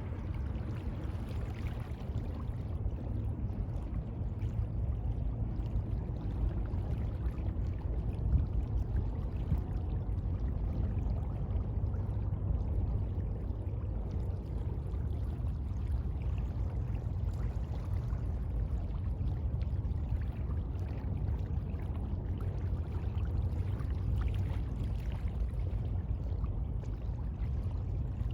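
Sea water washing and lapping in a steady, unbroken rush, heaviest in the low end.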